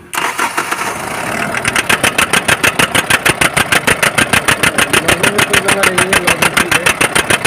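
Common-rail diesel engine cranked and catching, then running with a loud, rapid, regular knock of about seven beats a second, the 'kat kat kat' sound. The mechanic traces it to a faulty common-rail pressure sensor letting fuel pressure run too high.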